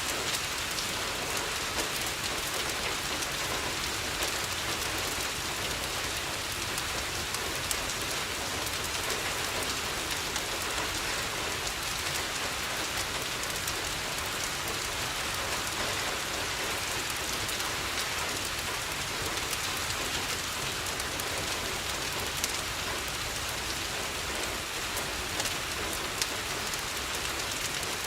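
Steady rain falling on a window, an even patter with scattered sharp clicks.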